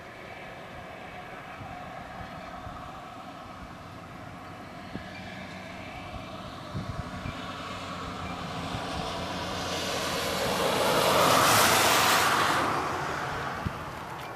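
A vehicle passing by: a steady rushing hum that grows louder over about ten seconds, peaks near the end and then fades.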